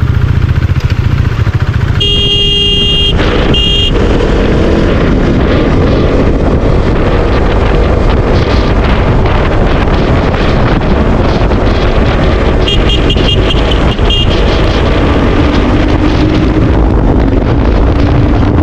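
KTM RC 200 motorcycle underway, its single-cylinder engine running under heavy wind noise on the microphone. A vehicle horn honks about two seconds in, and again more faintly about two-thirds of the way through.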